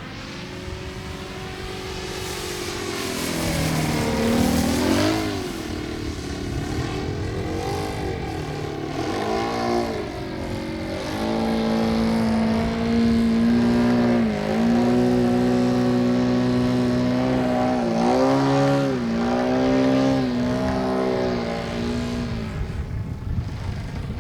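Engine of a small radio-controlled model airplane running in flight, its buzzing pitch dipping and rising several times as it flies passes and changes throttle, louder after the first few seconds.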